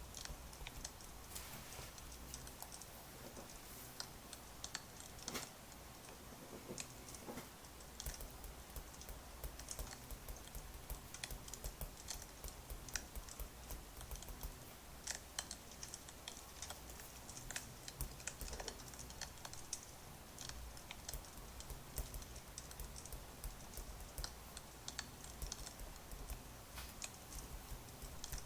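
Crackling wood fire: irregular sharp pops and crackles over a steady low rumble.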